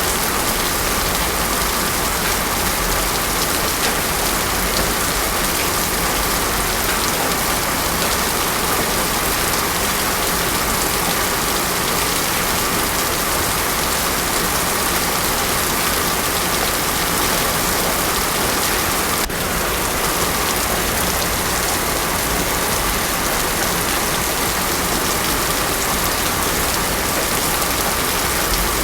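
Heavy rain pouring steadily on a road, an even, dense hiss of drops with no thunder.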